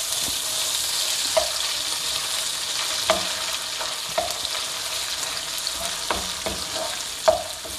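Chopped ginger sizzling in hot desi ghee in a kadhai, a steady hiss, while a wooden spoon stirs it. The spoon knocks against the pan about six times, each knock ringing briefly.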